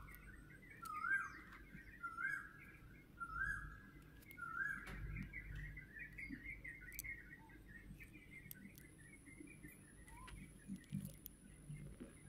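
Bird calling: a short whistled phrase repeated about once a second, giving way about five seconds in to a quicker twittering chatter.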